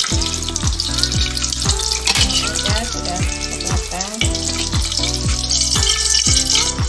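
Egg-coated tofu-and-chicken rolls wrapped in napa cabbage sizzling as they deep-fry in hot oil in a wok, turned and lifted out with a perforated metal skimmer. Background music with a steady beat plays over the frying.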